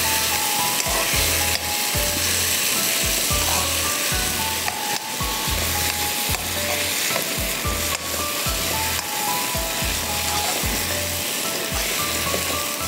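Marinated chicken pieces frying in oil and butter in a wok, sizzling steadily while a spoon stirs them.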